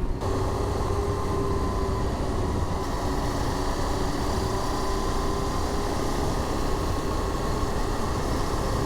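KTM adventure motorcycle riding at a steady speed: an even engine drone under a rush of wind noise, picked up by an in-helmet microphone.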